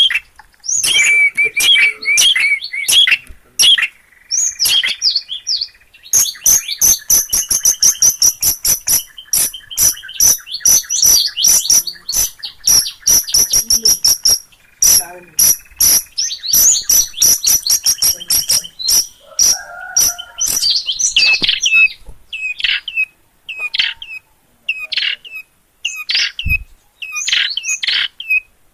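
Long-tailed shrike singing: a loud, fast, varied chattering song of rapid runs of notes, which in the last few seconds breaks into separate harsh notes about one a second.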